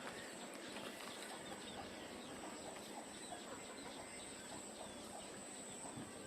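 Faint, scattered bird chirps over a steady background hiss, with a thin, steady high-pitched whine.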